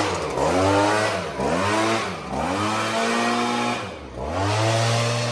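An engine revving up and easing off several times, its pitch climbing and dropping back, over a steady low drone.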